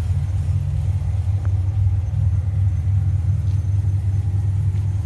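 2010 Camaro SS V8 idling steadily through ARH long-tube headers and a Flowmaster Outlaw exhaust, a loud, even, deep rumble with no revving.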